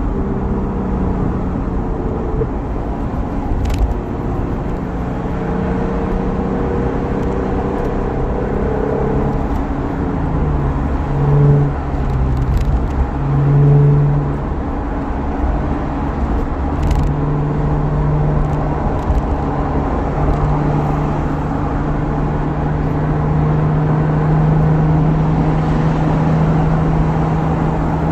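Lexus IS350's 3.5-litre V6 heard from inside the cabin while driving, through a resonated exhaust with high-flow cats and an F-Sport axle-back, over road noise. The engine note rises and falls, swells briefly twice a little past halfway, then holds a steady deep note through the rest.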